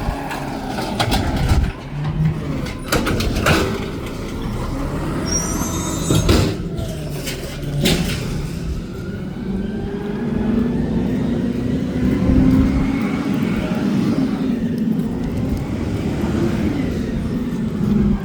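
Garbage truck at work collecting trash: several sharp metal clanks in the first eight seconds, then its engine revving up, rising in pitch around the middle and easing off again.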